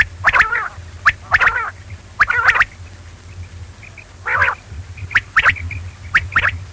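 Quail calling over and over: about one call a second, often a short note followed quickly by a longer warbling one, with a steady low hum underneath.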